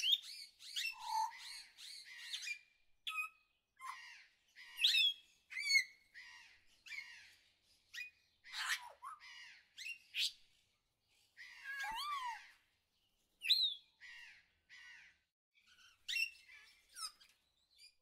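Several birds chirping and calling: a run of short quick chirps and gliding whistles, with a few harsher calls around the middle.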